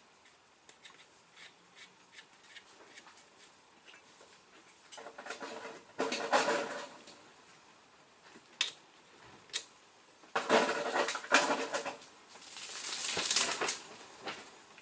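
Small metal parts and hand tools clinking and rattling as cylinder head nuts and washers are fitted onto the studs: scattered light clicks, with louder clattering bursts about six and eleven seconds in.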